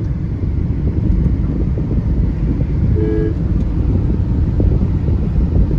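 Electric car driving at speed: a steady low rumble of tyre and wind noise from inside the cabin, with a brief short tone about three seconds in.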